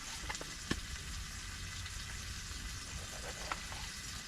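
Bison burger patty sizzling steadily in an oiled pan on a wood stove, with a few short sharp clicks over the top.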